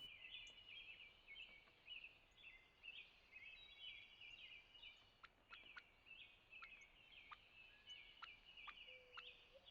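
Faint chorus of small birds chirping and twittering without a break, with scattered sharp chip notes.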